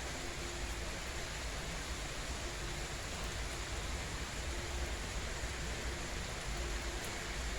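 Steady rain falling, an even unbroken hiss with a low rumble beneath.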